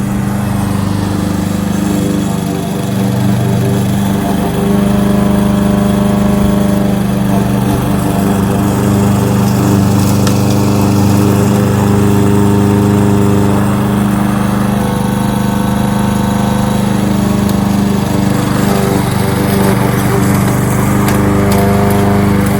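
Kohler XT-675 single-cylinder engine of a Yardworks push lawnmower running steadily, getting slightly louder about four seconds in.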